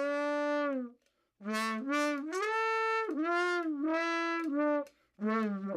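Trombone played with a cup mute: a held note that stops about a second in, then after a short pause a phrase of several sustained notes moving up and down, and a new note begins near the end.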